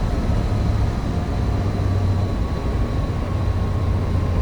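Cessna 150's four-cylinder Continental O-200 engine running steadily: a low, even drone with a faint thin whine above it that drifts slightly lower in pitch.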